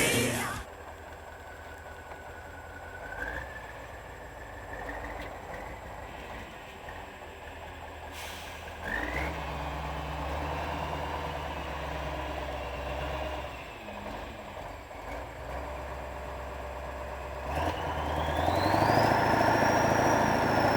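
Kirovets heavy articulated tractor's diesel engine running, with a whine that slides up in pitch a few times. Near the end it gets louder and a higher whine rises as the engine revs up.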